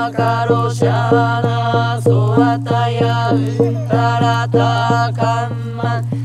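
Chanted singing over a steady low drone, with a regular drumbeat of about three strokes a second.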